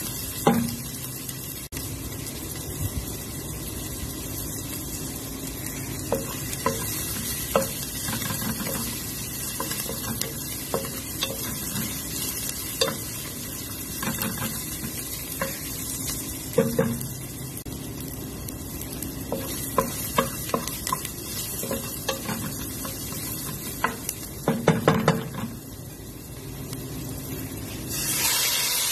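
Chopped onions sizzling in oil in a large pot while a wooden spatula stirs them, with scattered knocks and scrapes of the spatula against the pot and a quick flurry of them about three quarters through. Near the end the sizzle grows louder as raw chicken pieces are tipped in.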